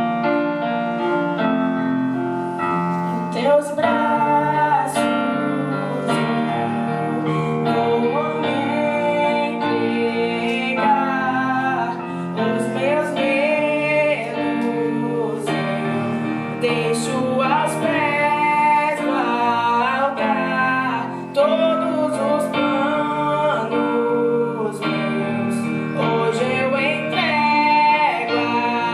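Female singing with piano accompaniment; the voice comes in a few seconds in over the piano and carries on in sung phrases.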